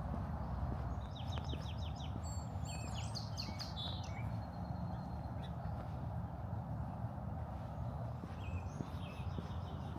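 A songbird singing: a run of quick repeated notes about a second in, running into a more varied warbling phrase, and a shorter phrase again near the end. Under it is a steady low rumble of background noise.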